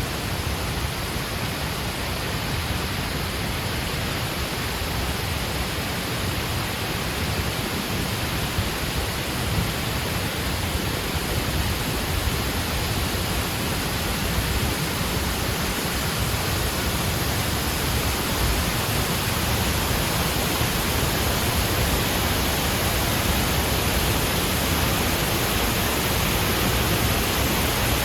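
Steady rushing roar of a tall artificial waterfall, growing slightly louder toward the end.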